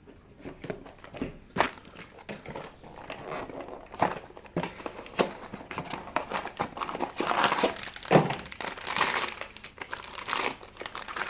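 Packaging being handled and opened: crinkling of a Funko Mystery Minis blind box and its foil bag, with irregular clicks and small knocks of cardboard and plastic. The rustling gets denser and louder in the second half.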